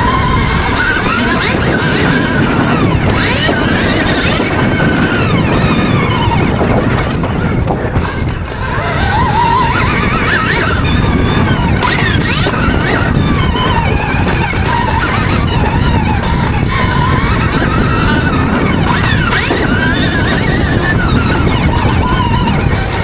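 Stark Varg electric motocross bike's motor whining, its pitch repeatedly rising and falling with the throttle, over a loud rushing noise. The whine briefly drops away about eight seconds in.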